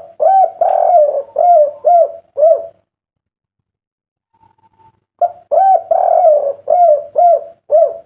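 Spotted dove (derkuku) cooing in the three-'kuk' song style: two phrases, each opening with a longer coo followed by several short rounded coos, with a pause of about two and a half seconds between them.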